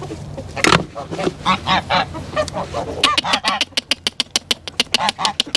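A flock of chickens calling excitedly over food scraps, short squawks and clucks one after another. From about three seconds in, a quick run of sharp ticks, several a second, joins the calls.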